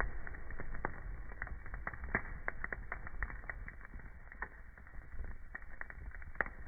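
Wood fire crackling in a fireplace: irregular sharp pops and snaps, several a second, over a low steady rumble of the burning.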